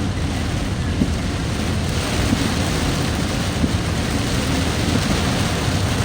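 Steady low rumble of a vehicle travelling in heavy rain, with the hiss of rain and wet road; the hiss grows stronger about two seconds in.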